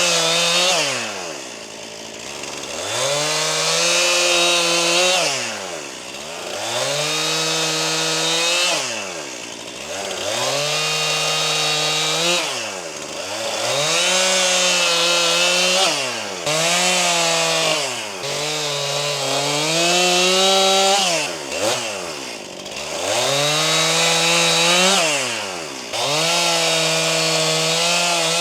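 Stihl MS261 C, a 50 cc two-stroke chainsaw, cutting firewood at full throttle. About every three to four seconds the engine drops off and winds back up between cuts, and in one cut the pitch sags a little under load. The saw is brand new, on its first run.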